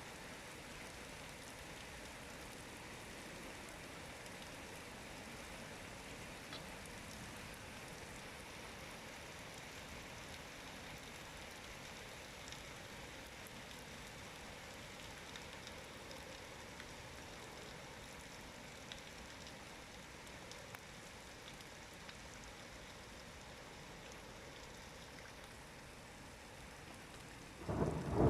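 Steady, fairly faint rain with occasional light drop ticks. Near the end, a much louder rushing noise starts abruptly.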